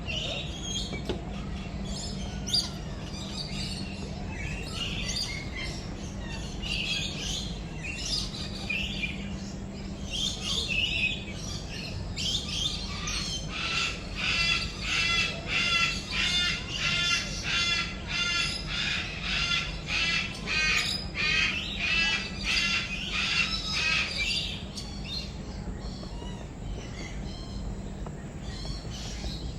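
Captive birds calling, with scattered chirps and squawks, then a long run of harsh repeated calls about two a second through the middle, which stops about two thirds in. A steady low hum underlies it.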